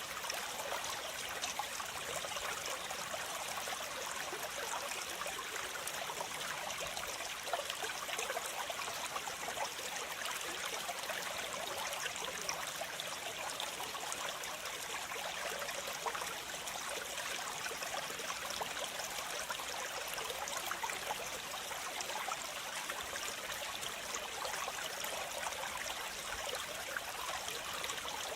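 Waterfall: water falling and splashing in a steady, even rush, mostly high-pitched hiss with little low rumble.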